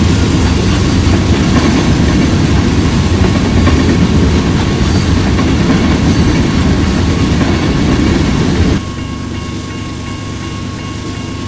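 Freight train passing close by, wheels clattering over the rail joints with a heavy rumble. About nine seconds in the sound cuts off abruptly to a quieter, steady rumble with a faint steady tone.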